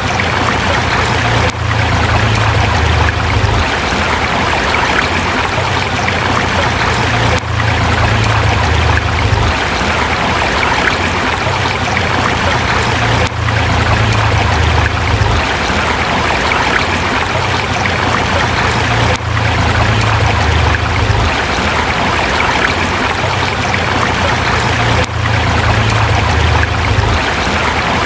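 A forest river flowing over rocks: steady, loud rushing water. A low rumble swells and drops back about every six seconds.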